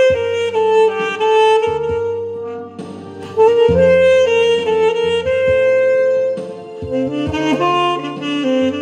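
Saxophone playing a slow melody of long held notes over an instrumental backing track with bass and chords.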